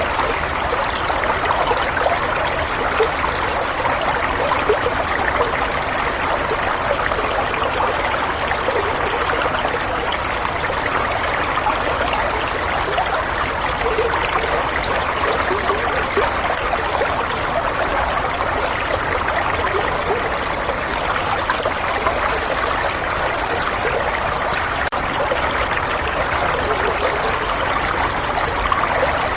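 Running water: a steady stream trickling and splashing, an even rushing noise with small bubbling flecks.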